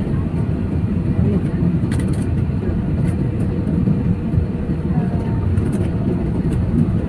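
Steady low rumble of airliner cabin noise, from the engines and ventilation, with faint passenger voices in the background.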